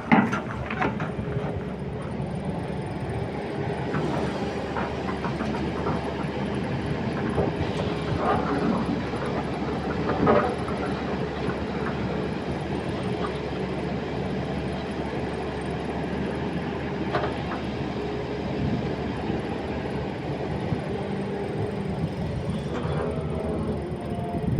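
Excavator's diesel engine running steadily, with a few sharp knocks scattered through it, the loudest right at the start and about ten seconds in.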